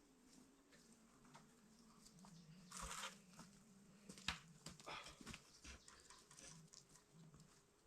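Faint rustling and scattered small clicks, with a louder rustle about three seconds in and a sharp click a second later.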